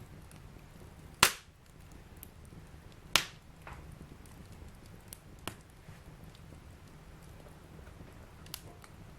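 Wood fire burning in a fireplace: a low steady rumble of flames with sharp crackling pops, two loud pops about one and three seconds in and a few fainter ones later.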